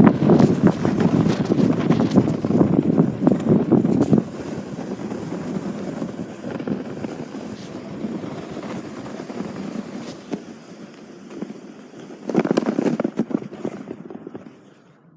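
A sled sliding fast down a snow-packed street, its scraping rush mixed with wind buffeting the microphone. It is loud for about the first four seconds, then eases off. A brief louder scrape comes about twelve seconds in, and the sound dies away near the end as the sled slows.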